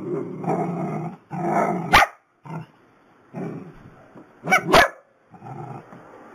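A dog growling and barking: long growls broken by a sharp bark about two seconds in and a quick pair of barks a little past halfway.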